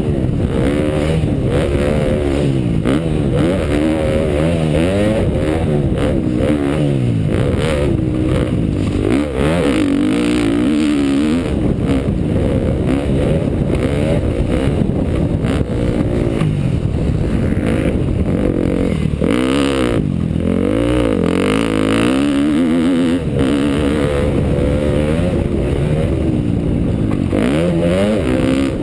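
2012 KTM dirt bike engine being ridden hard, the throttle opened and closed over and over. Its pitch climbs and drops every second or two without a break.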